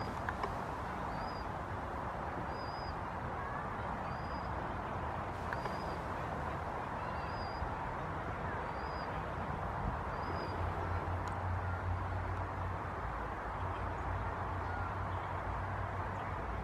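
A small bird repeats one short high call note about once a second, stopping about nine seconds in, over a steady background rush. A low hum grows louder about ten seconds in.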